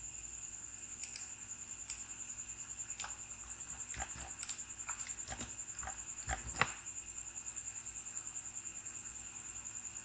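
Quiet background with a steady high-pitched whine and low hum, and scattered soft clicks, the loudest about six and a half seconds in.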